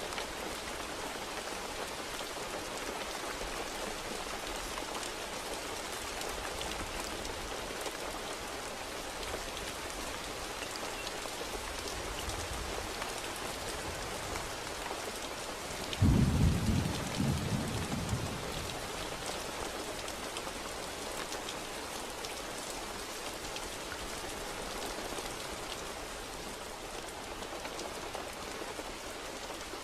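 Steady rain falling, with a single clap of thunder about halfway through that breaks suddenly and rumbles away over a couple of seconds.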